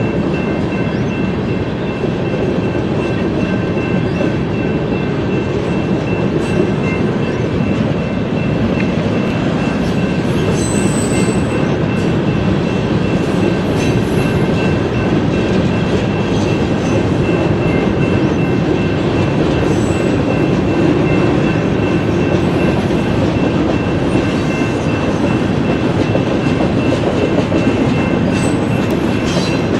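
Freight train cars rolling past at steady speed: a continuous rumble and rattle of steel wheels on the rail, with a thin steady high-pitched tone from the wheels over it.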